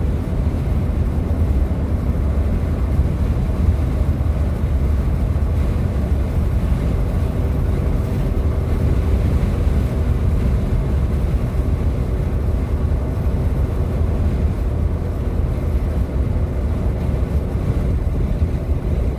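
Steady low road and engine rumble of a moving car, heard from inside the cabin. A faint steady hum joins in about seven seconds in.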